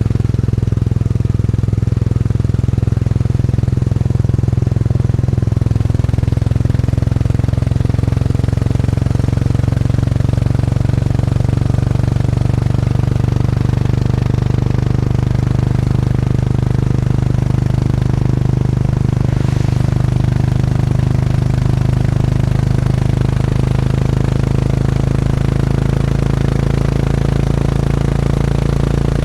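Classic motorcycle engine running steadily under way, a low exhaust note holding a nearly even pitch.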